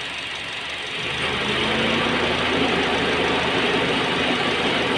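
Honda Jazz engine idling; about a second in, the note gets louder and heavier as the electric radiator fan switches on and loads the engine, the condition under which its misfire shows.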